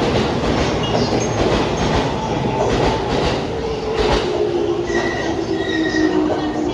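JR 209 series 1000-subseries electric train running along the rails with wheel and track noise. About halfway through, a motor whine sets in and falls steadily in pitch as the train slows.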